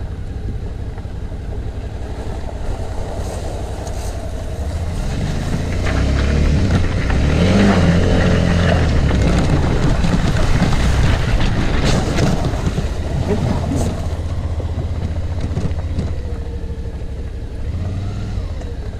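Suzuki V-Strom V-twin motorcycle engine running under load at low speed, louder for several seconds in the middle as the bike is ridden through a creek crossing.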